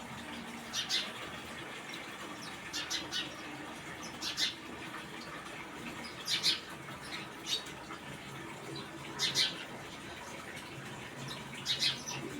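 Small birds chirping in short high-pitched bursts, a cluster of two or three chirps every one to three seconds, over a steady faint background hiss.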